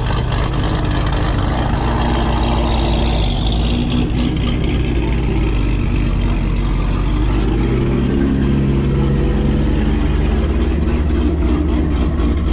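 A car engine running with a deep, steady rumble; its pitch rises about eight seconds in, as if lightly revved.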